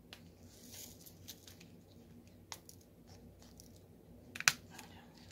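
Scattered light clicks and taps of a diamond-painting drill pen picking up small resin drills and pressing them onto the sticky canvas, the sharpest click about four and a half seconds in.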